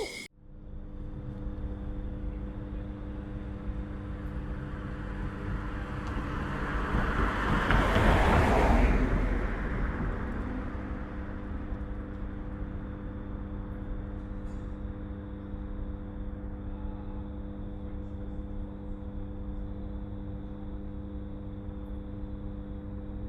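A vehicle passing by: a rushing sound that swells to a peak about eight seconds in and then fades, over a steady low hum.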